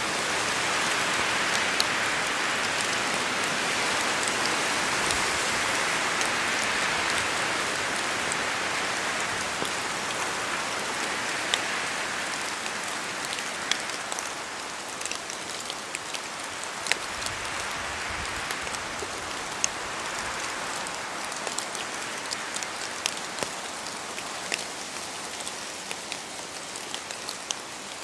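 Steady rain falling on forest foliage, a dense hiss of drops with individual heavier drips ticking sharply through it; the rain eases slightly about halfway through.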